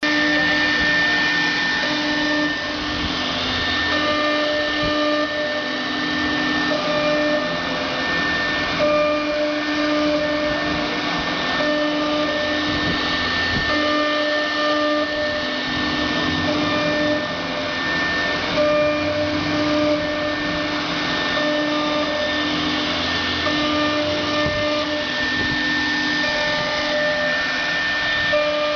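CNC router with a rotary axis running: a steady machine whine and noise, with several tones that cut in and out every second or so as the machine moves.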